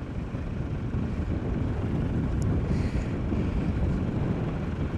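Wind buffeting the microphone: a steady low rumble with no clear engine note.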